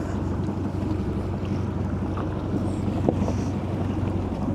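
Steady low drone of a 38-foot cruising yacht's engine under way, with wind buffeting the microphone. A small knock about three seconds in.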